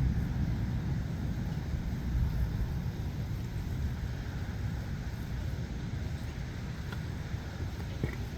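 Steady low outdoor rumble as a thunderstorm approaches, with no distinct events except a faint click near the end.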